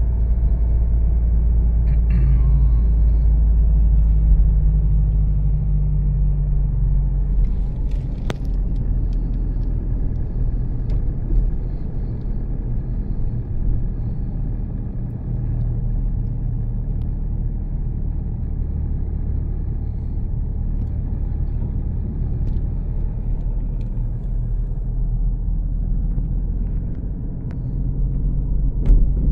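A heavy diesel engine running steadily with a deep low rumble, with a single sharp click about eight seconds in.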